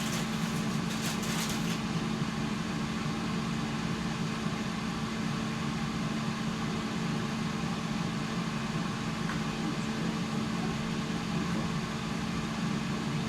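Steady mechanical hum with a constant low tone, with a few light clicks in the first couple of seconds.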